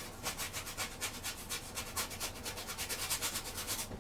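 Paintbrush scrubbing oil paint onto a canvas in quick back-and-forth strokes, about seven a second.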